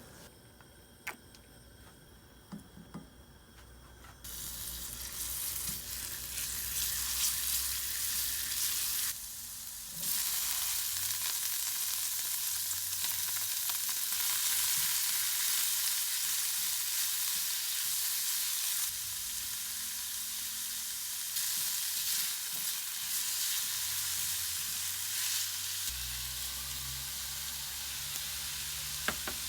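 Food sizzling in a hot pan as it is stir-fried. The first few seconds hold only a few small clicks, then the sizzling hiss starts suddenly about four seconds in and carries on, briefly dropping away once about a third of the way through.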